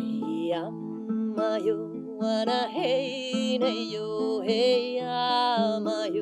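A woman singing a slow melody over picked acoustic guitar notes, her voice wavering and gliding in pitch.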